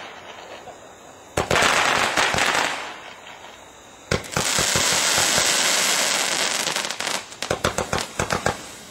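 Fireworks going off: a burst of dense crackling and hissing about a second and a half in, a longer one of about three seconds from the middle, then a quick run of sharp bangs near the end.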